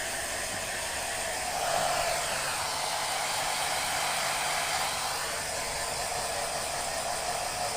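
Hair dryer blowing steadily, with a brief swell in level about two seconds in.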